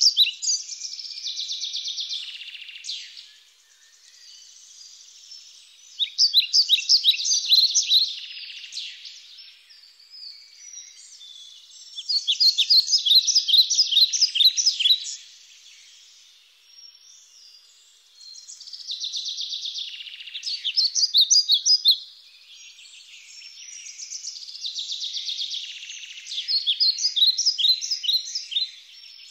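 Birds singing: a loud, fast chirping phrase of two to three seconds returns about every six seconds, with quieter trilling in between.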